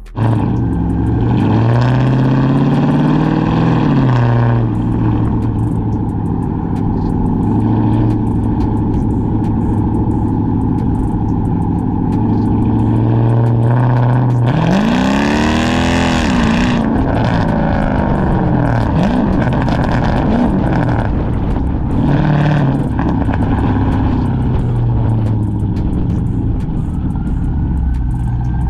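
Straight-piped, catless, cammed Chrysler 300C Hemi V8 exhaust, running at a steady low note with several short revs, and one big rev about halfway through that climbs sharply and then falls away.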